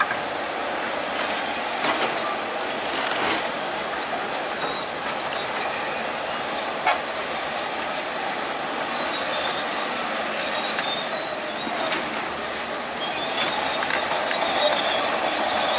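Crawler bulldozer at work: steady machine noise, with its steel tracks squealing high and clanking now and then. The squeals come through more near the end.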